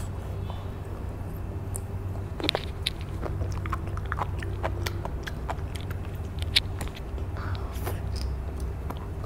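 Sea grapes (grape seaweed) being bitten and chewed close to the microphone: a scatter of sharp, wet clicking pops as the little beads burst, two of them louder than the rest.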